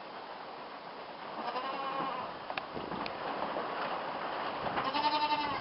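Goat kids bleating: one call about a second and a half in and a second, louder one near the end, over a steady low background noise.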